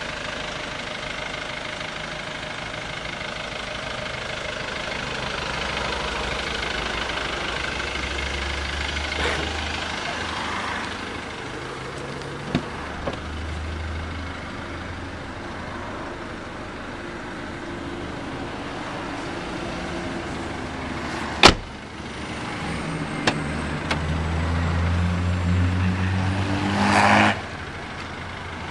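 Steady motor-vehicle engine noise, swelling and easing several times, with a few light knocks and one sharp loud bang about two-thirds of the way through.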